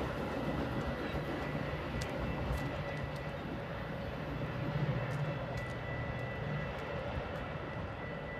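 Metra bi-level commuter train pulling away down the line, a steady low rumble with a few faint clicks.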